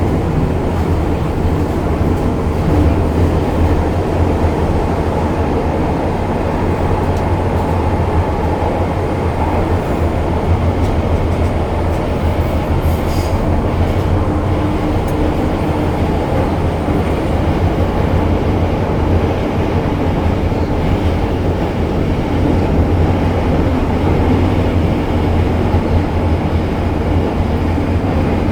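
MTR Kwun Tong Line M-Train electric multiple unit running between stations: a steady rumble of wheels on track and traction equipment.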